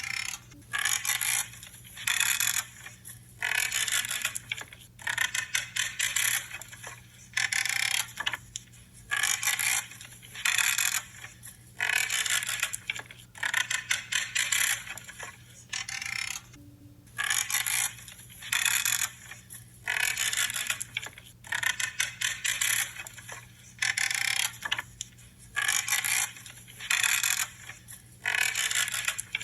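Pruning shears cutting through branches over and over, each cut a short creaking, crackling snip, about one every second or so.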